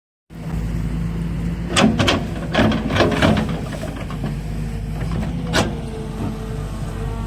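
Kobelco excavator's diesel engine running steadily, with a run of sharp clanks and knocks about two to three and a half seconds in and one more near six seconds.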